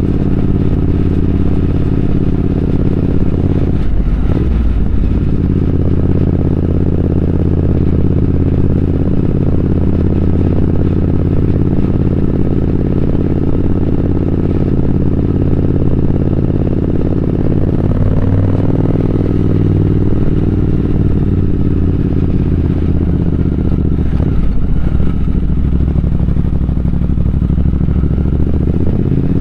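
Triumph Speed Twin 1200's parallel-twin engine running steadily under way, its pitch briefly dipping and picking up again three times.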